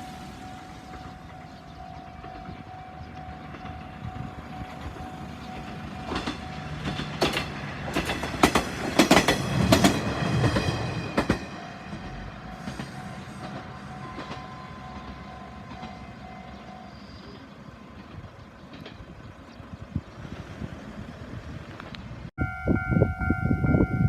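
Japanese level-crossing warning bell ringing steadily while a diesel railcar passes through the crossing, its wheels clacking over the rail joints, loudest about midway. Near the end it cuts to another crossing whose warning bell rings much louder.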